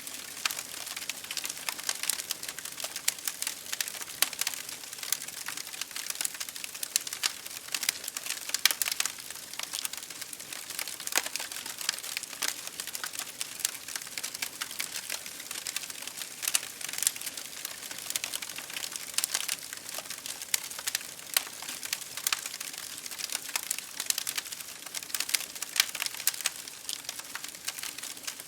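Wood fire crackling in a fireplace, with many irregular sharp pops and snaps over a steady hiss of rain falling on a window.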